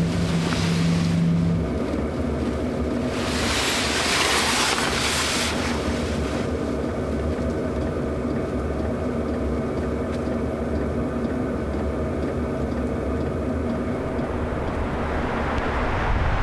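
A vehicle engine running steadily with road and wind noise, and a loud rushing noise about three to six seconds in.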